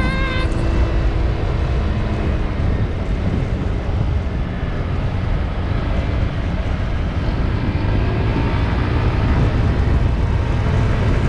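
Honda SH125 scooter's single-cylinder engine running on the road, a steady rumble of engine and road noise that is heaviest at the low end.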